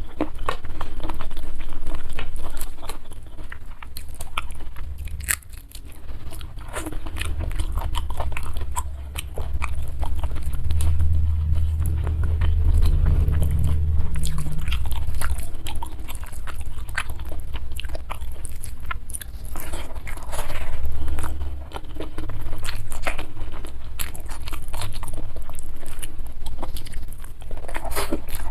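Close-miked eating: steady chewing with many small crisp crunches and wet clicks, and a low rumble from the mouth close to the microphone.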